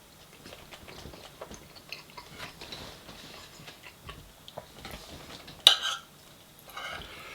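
Close-up eating sounds: chewing with small scattered clicks of cutlery and food, and one short, sharp, louder noise a little before the end.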